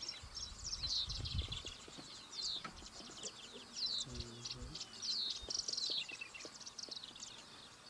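Small birds chirping in many quick, high calls, with a few low bumps near the start and a brief low hum about four seconds in.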